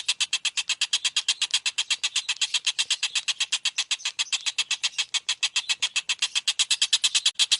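Songbird giving a fast, even trill of short high notes, about ten a second, unbroken and steady in pitch and loudness.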